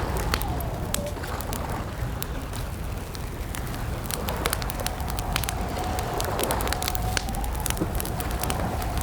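Campfire crackling with frequent sharp pops and snaps over a steady low rumble, with a thin wavering tone that comes in more strongly in the second half.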